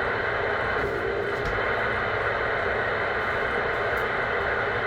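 CB radio receiver hiss: steady static from the speaker with no one transmitting, squeezed into the radio's narrow audio band.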